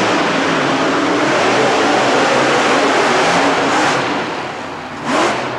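Monster truck engines running loud at high revs, easing off about four seconds in, then one short rising rev near the end.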